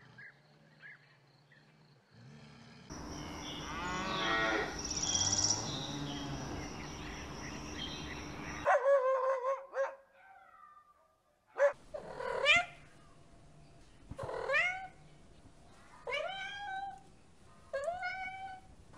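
Kitten meowing in about five short calls, each rising and then falling in pitch, through the second half. Before them come several seconds of steady rushing noise and a single pitched animal call.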